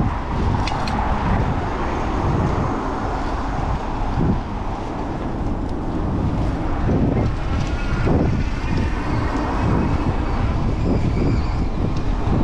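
Wind rushing over the microphone of a moving bicycle, over the steady noise of city road traffic.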